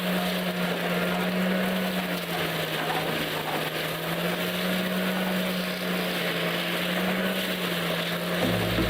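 Machine engine running at a steady pitch with a noisy mechanical wash above it. A lower hum joins just before the end.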